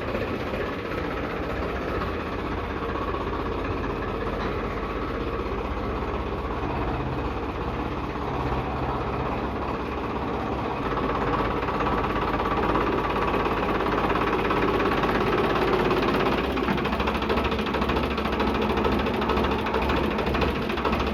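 Heavy diesel engine running steadily, growing louder about halfway through.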